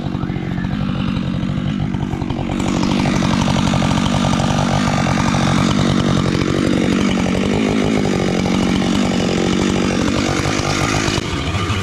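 Husqvarna chainsaw running, opening up about two and a half seconds in and holding steady at high revs while cutting into the trunk of a large gum tree being felled, easing off near the end.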